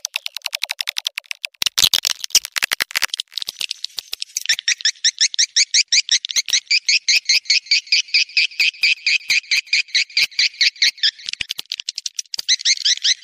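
Swiftlets calling: a rapid run of dry clicks for the first few seconds, then a fast, even series of twittering chirps, several a second, that carries on. This is a swiftlet mating-call recording of the kind played as a call sound to draw swiftlets.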